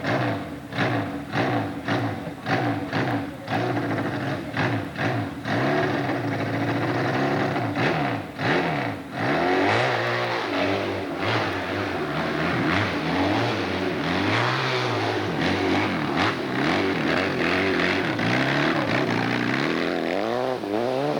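Hill-climb motorcycle engines revving, the pitch rising and falling several times, with rapid choppy breaks in the sound through the first half.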